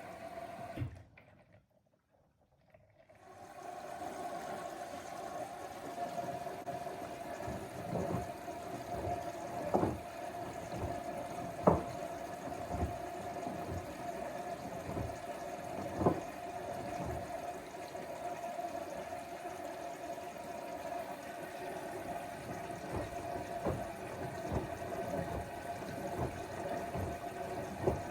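LG front-loading washing machine early in a wash: water running and sloshing in the drum over a steady pump hum, with a few sharp knocks. The sound drops out about a second in and returns a couple of seconds later.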